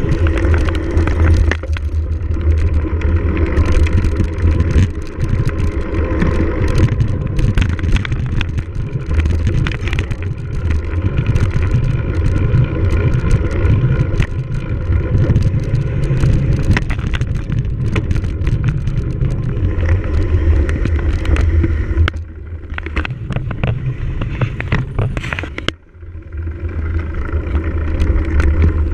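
Cyclocross bike ridden fast over rough ground: a steady low rumble of tyres and wind on the microphone with frequent rattles and clicks from the bike. The noise drops for a few seconds about three-quarters of the way through.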